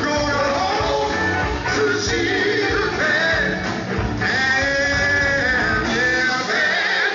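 A group's song: several voices singing together over guitar-led band accompaniment, played continuously.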